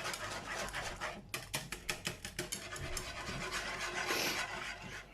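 A whisk scraping and rubbing around a pan in quick, repeated strokes, working milk into a thickening flour roux for a béchamel sauce.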